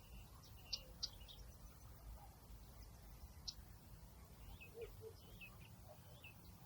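Faint nature ambience of small birds giving scattered short chirps and little warbled call notes, the two sharpest just under a second in, over a low steady rumble.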